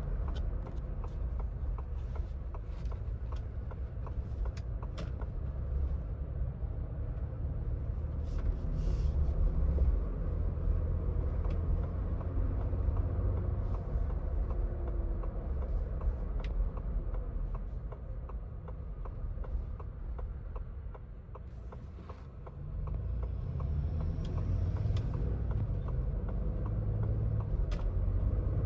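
2026 Ford Bronco Badlands driving at highway speed: a steady low rumble of engine and tyres on the road. It eases off briefly about three-quarters of the way in, then comes back up.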